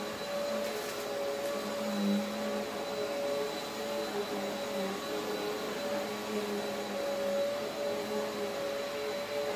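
Eureka AirSpeed Exact Pet vacuum cleaner running steadily while vacuuming carpet: a continuous motor whine with a few held tones and small swells in level.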